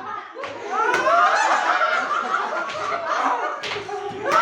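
People laughing and chuckling, with a couple of sharp smacks about a second in and near the end.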